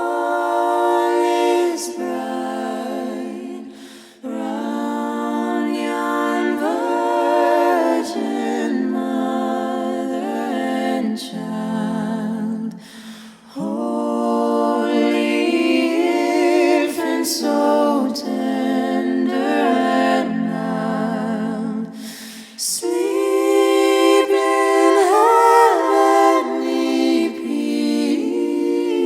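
Unaccompanied singing: slow, held notes with vibrato in long phrases, broken by short breath pauses about four, thirteen and twenty-two seconds in.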